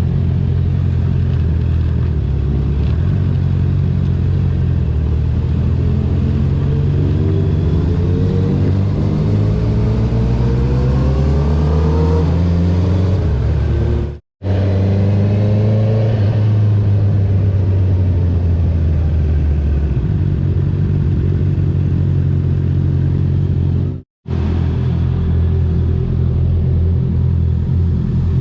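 Honda CB650R inline-four engine running through an Akrapovic full-system titanium exhaust with the dB killer removed, on the move. It holds a steady note, then rises in pitch as the bike accelerates about halfway through. After a brief cut-out the note falls away as the bike slows. It cuts out briefly once more later on, then settles back to a steady note.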